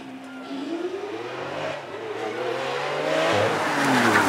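Supercar engine accelerating hard, its revs climbing steadily. About three seconds in there is an upshift, and the car gets louder as it approaches.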